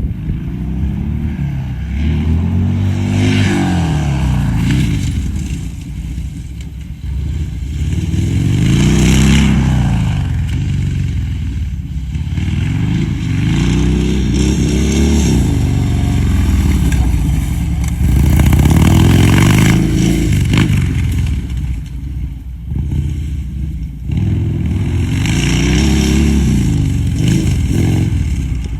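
Harley-Davidson Sportster's V-twin engine revving up and falling back again and again, about every two to three seconds, as the bike is ridden off-road.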